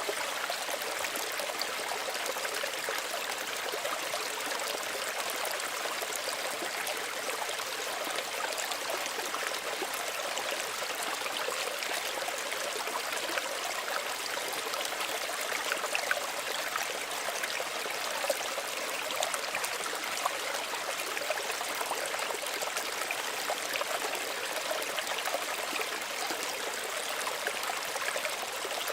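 Small stream running steadily: an even rush of water, flecked with small trickles and splashes.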